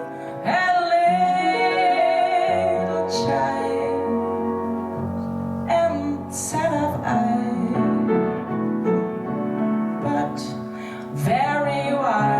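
A woman singing a slow ballad in long held lines with vibrato, accompanied by piano and harp.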